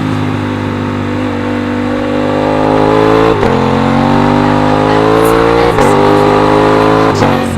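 Aprilia RS660's parallel-twin engine pulling hard under acceleration, its pitch climbing through the revs. It upshifts three times, with a brief drop in pitch at each change and a climb again after.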